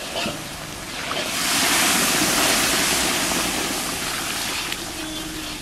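Warm milk poured into a wok of semolina roasted in hot ghee, hissing and bubbling up as it hits the hot fat. The hiss swells about a second in and slowly dies away.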